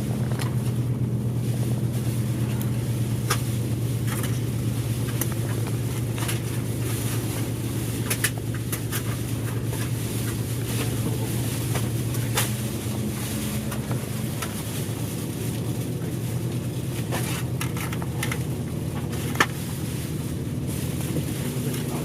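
Bus diesel engine running steadily while the bus drives, heard from inside the passenger cabin, with road noise and a few sharp rattles or clicks; the engine note shifts a little about halfway through.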